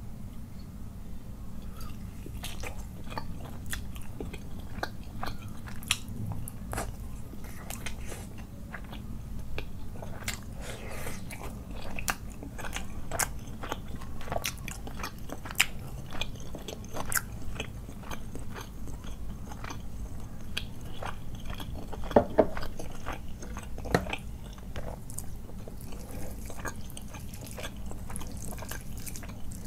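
Close-up mouth sounds of biting and chewing spiced chicken drumstick curry with rice, many quick wet clicks and smacks over a steady low hum. A few louder clicks come about three quarters of the way through.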